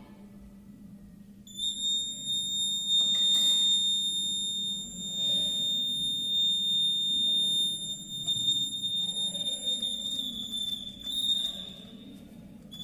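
Rain water alarm's buzzer sounding one continuous high-pitched tone, starting about a second and a half in and wavering slightly before it stops near the end.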